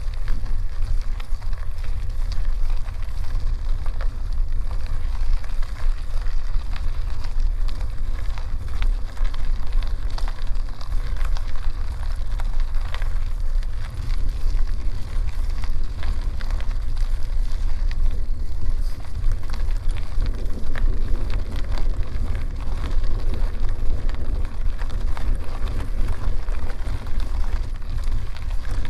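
Wind buffeting the microphone on a moving bicycle, a steady low rumble, with the bike's tyres rolling over a dirt forest road and a constant patter of small clicks from grit under them.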